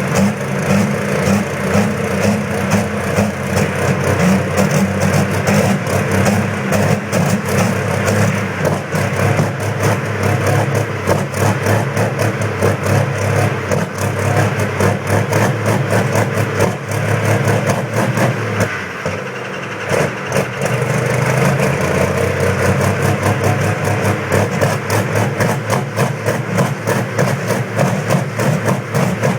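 Diesel engine running after a cold start, with a rapid knocking clatter. The sound dips briefly about two-thirds of the way through, then carries on.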